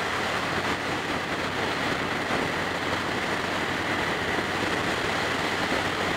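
Steady wind rush and engine drone from a Yamaha Star Raider's V-twin cruising at highway speed, heard through a helmet-mounted action-camera microphone.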